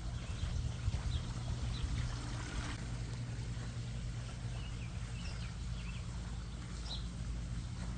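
Backyard pond ambience: the steady splashing of a small waterfall and fountain with a low hum underneath, and short bird chirps now and then.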